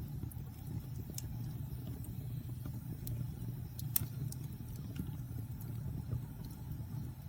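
Fire burning in a fireplace: a steady low rumble with scattered sharp crackles and pops, the loudest about four seconds in.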